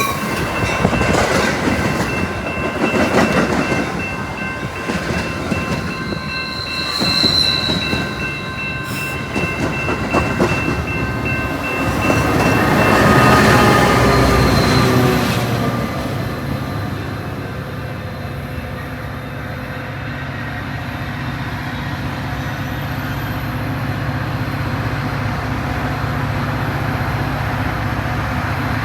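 Metra commuter train passing, its wheels clicking over the rail joints, with a brief high wheel squeal about seven seconds in. It swells to its loudest around the middle, then settles into a steady low rumble.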